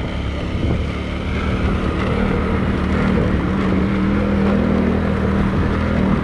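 A vehicle engine running steadily while driving along, its hum climbing slightly in pitch midway.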